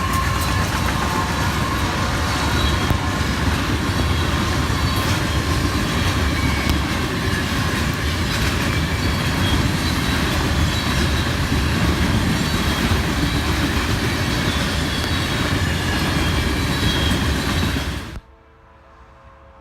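Freight train rolling past at close range: a steady, loud rumble and clatter of wheels on rail, with faint squealing from the wheels. The tail of a horn blast falls in pitch at the very start, and the sound cuts off abruptly about 18 seconds in to something much quieter.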